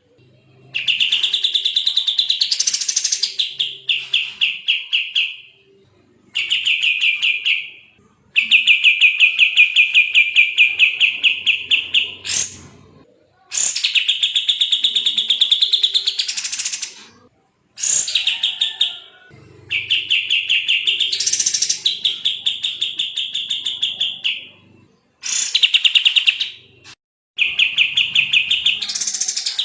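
Kapas tembak songbird singing in fast, dense rapid-fire phrases: trains of quickly repeated notes, each lasting two to four seconds with short pauses between, several carrying a sharp rising sweep.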